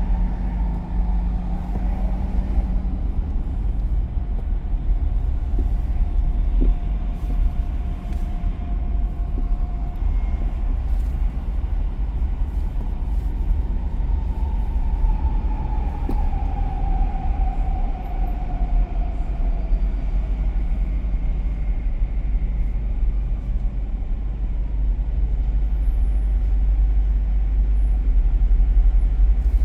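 Steady low rumble of a car driving on city streets: road and engine noise, with a faint whine that slowly falls in pitch partway through.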